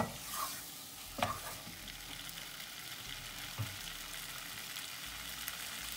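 Diced chicken thigh sizzling in butter in a nonstick frying pan on low to medium heat, with a wooden spoon scraping through it as it is stirred. A few short knocks of the spoon against the pan, one about a second in and another past the halfway point.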